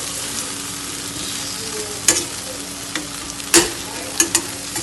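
Chicken pieces coated in cashew-cheese paste frying in butter in a pan, a steady sizzle as they turn crisp, with a few sharp clicks about two, three and a half, and four seconds in.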